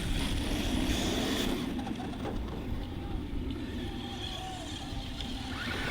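Faint whine of brushless electric RC monster-truck motors driving over a steady low rumble.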